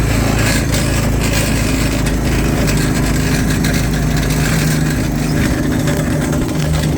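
Small dune buggy engine running steadily under load as it tries to climb a snowy hill.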